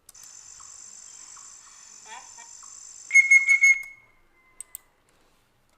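Playback of an edited forest sound effect: a steady, high insect trill like crickets, with a short rising bird chirp about two seconds in and a loud burst of whistled bird calls about three seconds in. Two short clicks follow near the end.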